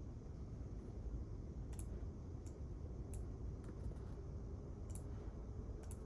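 Scattered keyboard key clicks, about one a second at uneven intervals, over a steady low hum of a quiet library room.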